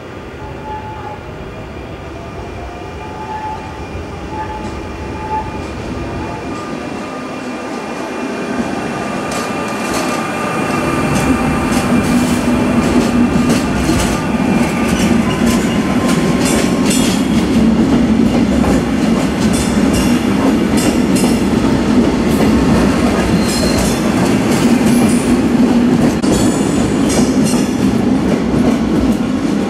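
Belgian SNCB electric passenger train running past close by on the platform track. It grows louder over the first ten seconds, then holds loud with a steady hum and a quick run of wheel clicks over rail joints and points.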